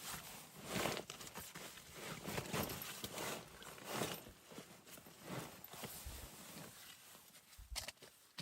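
A series of irregular crunches and rustles, several to the second at first and thinning out near the end.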